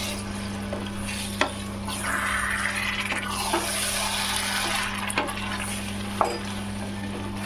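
Chicken pieces sizzling as they fry in thick masala in a stainless steel pot, stirred with a wooden spatula, with a few knocks of the spatula against the pot. The sizzle swells for a few seconds in the middle.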